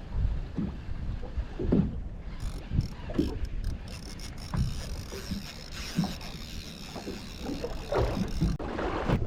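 Wind buffeting the microphone on a drifting fishing boat, with water slapping against the hull in irregular low thumps.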